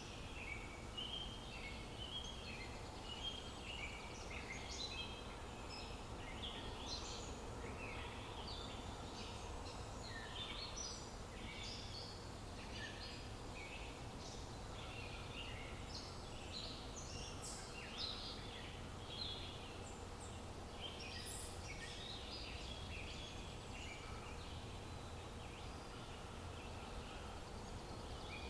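Many small birds chirping and trilling at once, a dense chorus of short overlapping calls with no break, over a steady low outdoor background noise and a faint steady hum.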